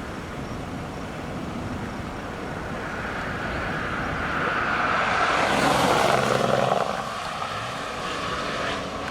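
A vehicle passing by: it grows louder to a peak about six seconds in, then fades as its pitch drops.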